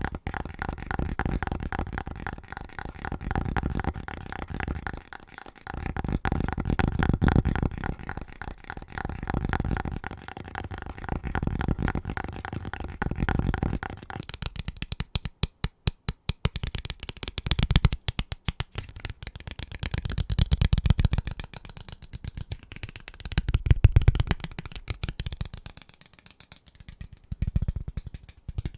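Very fast fingertip and fingernail tapping on household objects, coming in rapid surges. For the first half a faint ringing tone sounds under the taps; about halfway through the object changes, and the taps come in sparser clusters with short gaps.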